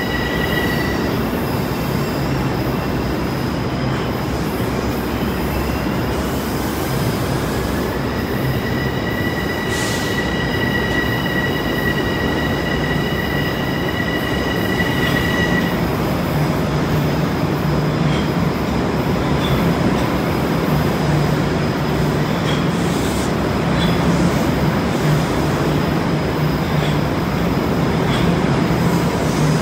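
Bombardier M7 electric multiple-unit train running past a platform as it pulls out: a steady, loud rumble of wheels and traction gear under a low hum. A high squeal glides up and holds steady from about a quarter of the way in until about halfway, and the noise grows slightly louder later on.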